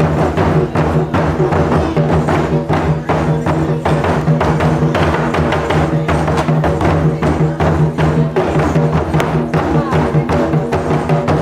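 Live drum ensemble playing fast, steady strikes several times a second, over sustained ringing tones.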